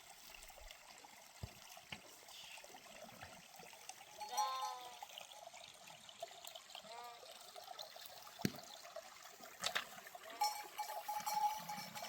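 Sheep bleating, a clear call about four seconds in and a fainter one near seven seconds, over the steady trickle of a mountain stream. There is a sharp click near ten seconds and another held call near the end.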